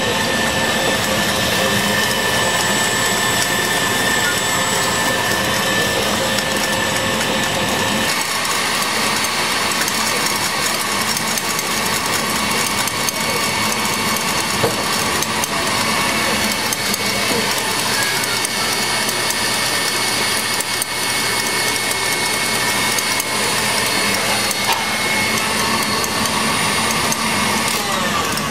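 Electric mixer running steadily at speed, whipping egg whites with hot sugar syrup (an Italian meringue) toward stiff peaks. Its tone shifts about eight seconds in, and it stops near the end.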